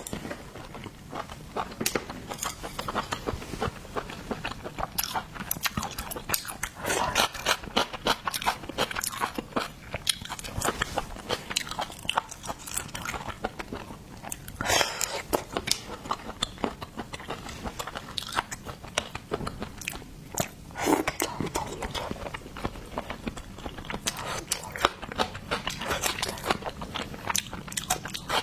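Close-miked eating of seafood: biting and crunching into shell and flesh, with chewing in between and many sharp, irregular crunches throughout.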